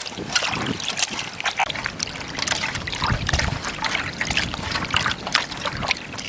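Water splashing and trickling in irregular small splashes, as if being handled or poured.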